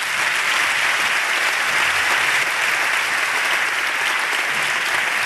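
Audience applauding steadily after an acceptance speech, a dense even patter of many hands clapping.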